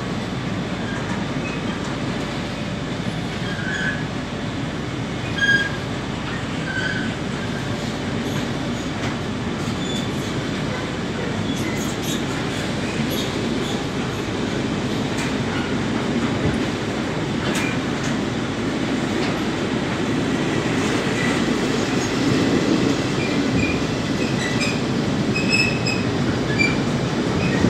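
Empty double-deck car-carrier freight wagons rolling past on the rails: a steady rumble of steel wheels on track, with short high wheel squeaks and occasional clicks. It grows slightly louder toward the end.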